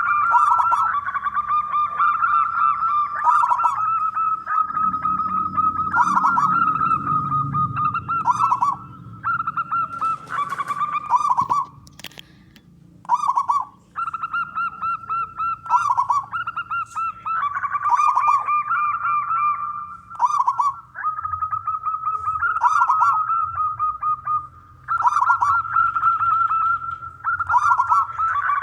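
Zebra dove (perkutut) cooing over and over: loud, rapid rippling coo phrases in quick succession, with a short pause about halfway through.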